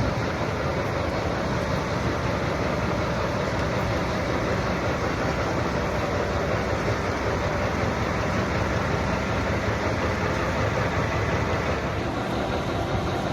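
Diesel locomotive running, a steady, unbroken train noise.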